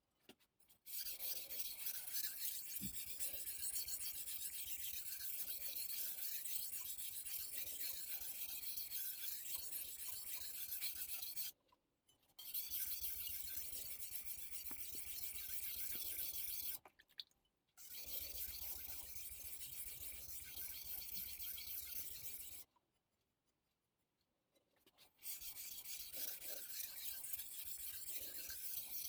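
A steel chef knife blade being stroked back and forth on a Missarka combination whetstone: a fast, rasping, hissy scrape. It comes in four long runs with brief pauses between them.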